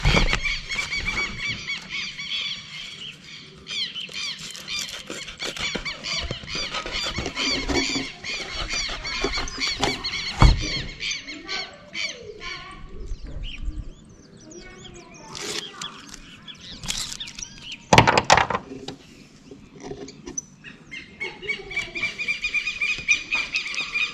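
High, squealing chirps from birds calling continuously, fading in the middle and picking up again near the end. A few sharp knocks from work on the chimney: one at the start, one about ten seconds in and a louder one about eighteen seconds in.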